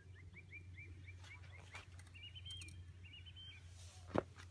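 A small songbird singing: a quick run of short chirps, about five a second, then a higher warbling phrase. A single sharp knock comes near the end.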